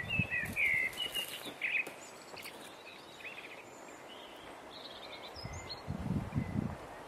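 Small birds chirping in quick short phrases, loudest in the first two seconds and fainter later, over a steady outdoor hiss, with some low rumbling near the end.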